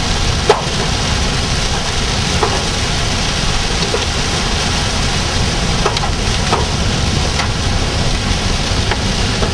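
Rain drumming on a moving car, heard from inside the cabin along with steady road noise. Sharp taps of drops or small hailstones strike the windshield every second or two.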